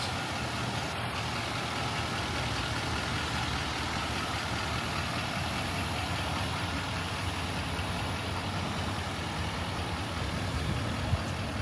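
A vehicle engine idling steadily with a low hum, under an even background rush.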